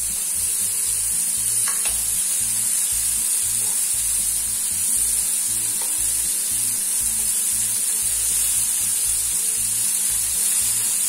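Cubes of spice-marinated paneer sizzling steadily in oil in a nonstick grill pan over a medium flame as they are turned over with a steel spoon. There is a light clink of the spoon against the pan about two seconds in.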